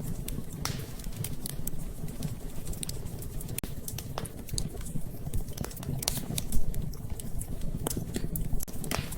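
Wood fire crackling in a fireplace: irregular sharp pops and snaps over a steady low rumble, with one louder pop about two-thirds of the way through.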